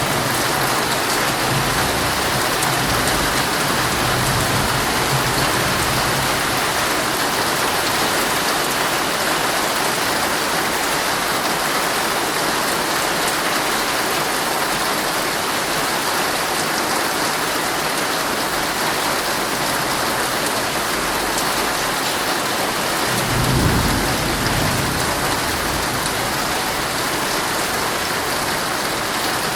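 Heavy rain drumming steadily on a tent's fabric, heard from inside. Thunder rumbles low, fading away early on, and comes again about three-quarters of the way through, swelling briefly and then dying away.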